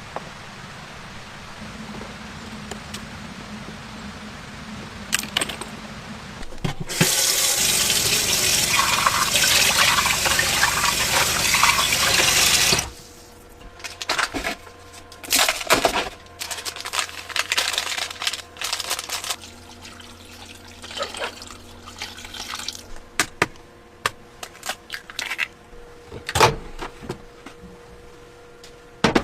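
Water running in a loud, steady rush for about six seconds, cutting off sharply, then scattered knocks and clicks.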